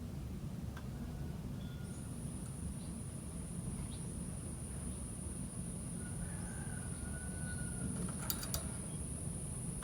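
Quiet background: a low steady rumble with a thin, steady high whine that comes in about two seconds in and holds. There are a few faint short chirps and a quick run of clicks near the end.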